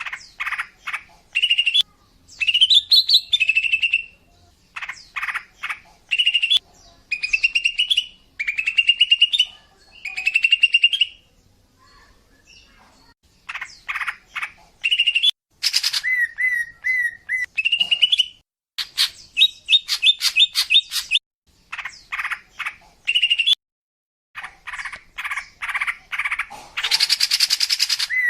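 Female green leafbird (cucak ijo) calling: short phrases of rapid chattering notes and slurred rising whistles, separated by brief pauses, with a harsh buzzy burst near the end. It is the call of a female, used to lure males.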